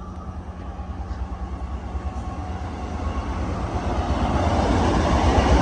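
Approaching train running through the station, its rumble growing steadily louder.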